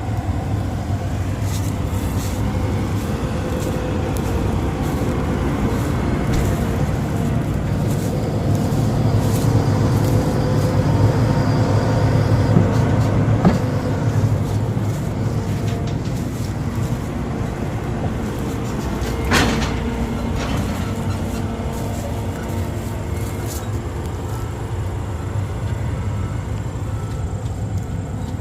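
John Deere S680 combine's diesel engine running steadily, growing somewhat louder for a few seconds in the middle, with a sharp knock about two-thirds of the way through.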